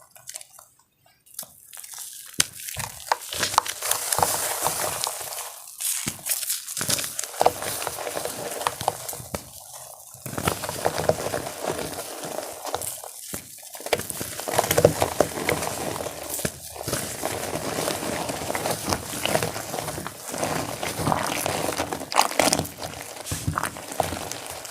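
Water-dipped gym chalk being crushed and crumbled, a dense crackling crunch with a few short pauses.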